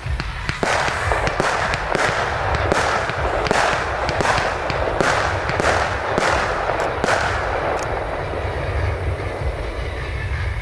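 Fireworks display going off: a fast string of sharp bangs and dense crackling over a steady low rumble. The crackling thins out for the last couple of seconds.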